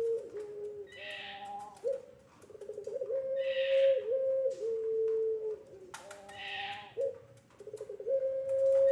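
Puter pelung (ringneck dove) cooing in long drawn-out calls, each phrase held on one pitch and then stepping down to a lower note, repeated about every three seconds. Rough, higher hoarse bursts sound between the phrases.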